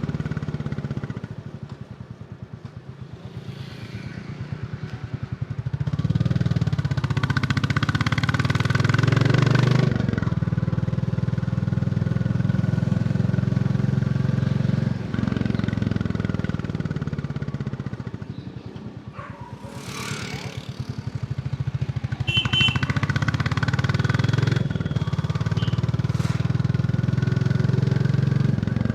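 Royal Enfield Bullet 350's single-cylinder engine running under way with its steady thump. The throttle eases off twice, and each time the engine falls quieter before it pulls hard again.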